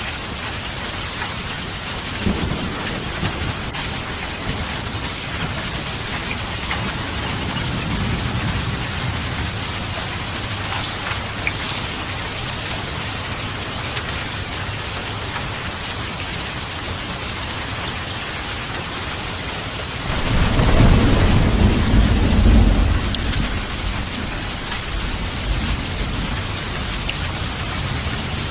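Steady heavy rain with rolling thunder: a soft rumble a couple of seconds in and another around eight seconds, then a louder, longer peal of thunder about twenty seconds in that lasts around three seconds.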